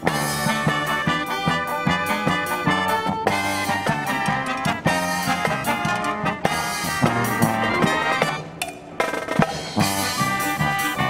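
Brass marching band playing, with trumpets and trombones over a drum kit and a steady beat. The music thins for a moment about two-thirds of the way in, then comes back in full.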